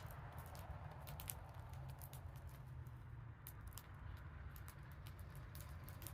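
Sparrows pecking and hopping: scattered light ticks and taps, irregular and quiet, over a low steady hum.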